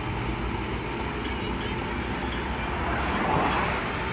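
Roadside traffic noise, with a vehicle passing close by and swelling loudest about three and a half seconds in.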